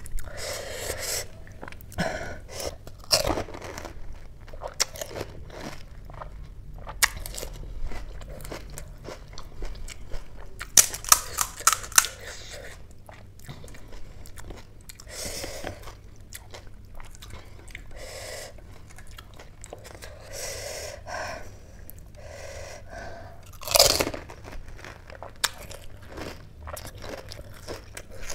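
A person chewing and crunching pani puri, crisp hollow puris filled with spicy water eaten whole. Repeated crunches run throughout, with a cluster of sharp crunches around the middle and a loud bite near the end.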